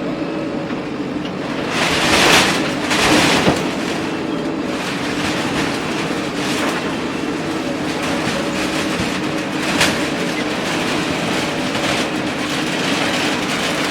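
Heavy machinery's engine running steadily, with two louder noisy surges a couple of seconds in.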